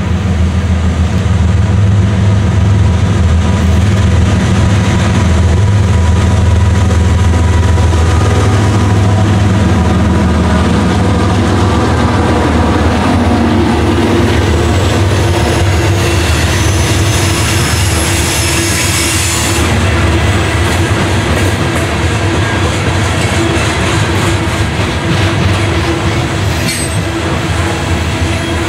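A loaded coal train passes close by. The deep drone of its lead diesel locomotives, a CSX ES44AH and CW44AC, fades after about ten seconds. The loaded open-top hopper cars then roll past with a steady rumble, wheel clatter and some squealing from the wheels.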